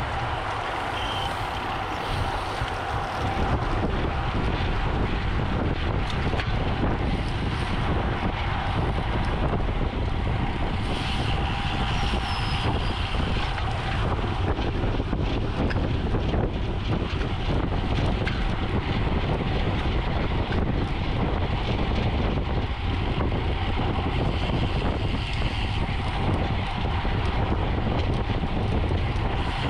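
Steady wind rushing over the microphone of a camera on a bicycle moving at race speed, with a low rumble of tyres on the road underneath.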